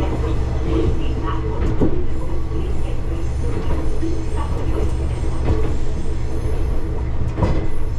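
Matsuura Railway diesel railcar running with a steady low rumble, with two sharper clacks, about two seconds in and near the end.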